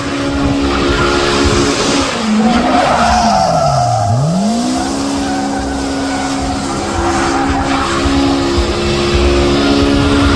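Car engine held at high revs during a burnout, with tyres squealing and spinning. About two seconds in the revs fall away, bottom out near four seconds, then climb quickly back and hold steady.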